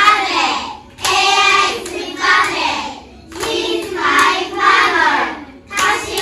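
A group of young children singing together in unison, phrase by phrase with short pauses between.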